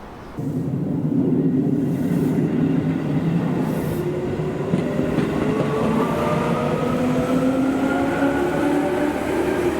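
Electric commuter train accelerating, its traction motor whine rising steadily in pitch over a rumble of wheels on rail. The sound cuts in abruptly just after the start.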